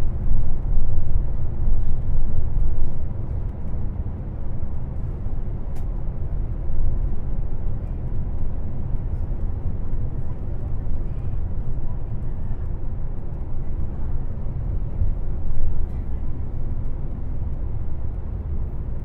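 Airport limousine bus on the move: a steady low rumble of engine and road noise, a little louder in the first three seconds.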